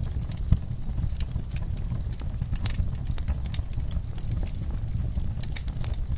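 Wood fire in a fireplace crackling, with irregular sharp pops and snaps over a steady low rumble of the flames. One louder snap comes about half a second in.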